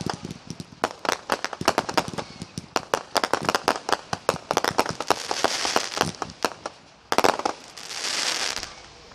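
Fireworks going off: a rapid run of sharp pops and bangs, several a second, then a crackling hiss. One louder bang comes about seven seconds in, followed by a hiss that dies away near the end.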